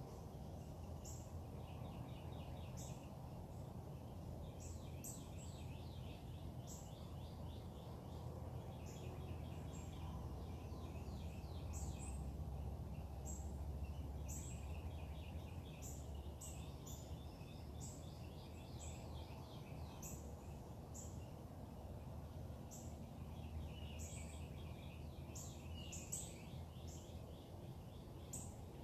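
Several wild birds singing, with repeated short chirps and fast trills, over a steady low background rumble.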